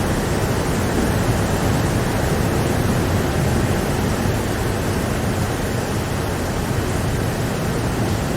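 Steady rain: a dense, even rushing noise with no breaks or separate drops standing out.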